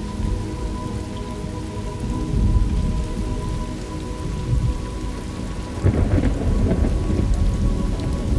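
Thunderstorm ambience: steady rain with rolling thunder. A rumble swells about two seconds in, and a louder one breaks around six seconds in and carries on to the end.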